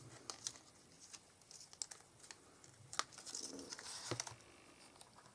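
Paper and card being handled on a craft table: a few faint light taps and soft rustles as die-cut paper snowflakes are picked up and placed, with a sharper click about three seconds in.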